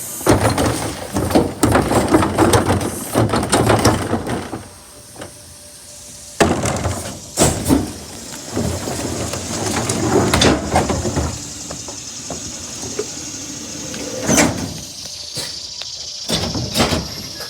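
Garbage truck collecting trash: long stretches of loud clattering and rumbling as refuse is dumped, with a few sharp bangs.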